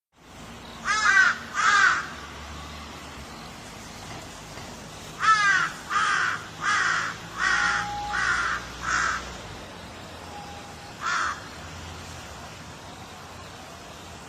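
Crow cawing: two harsh caws about a second in, a run of six caws a little over half a second apart starting around five seconds, then one last caw, over a steady background hiss.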